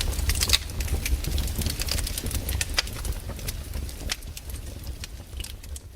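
Wood campfire crackling, with irregular sharp pops and snaps over a low steady rumble, fading out near the end.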